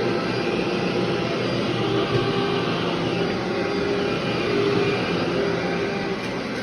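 Vacuum cleaner running steadily, a constant motor hum under a broad rush of suction noise.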